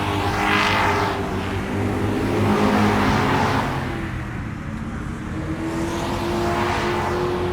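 Car engine running, the sound swelling and fading about three times, like vehicles passing by.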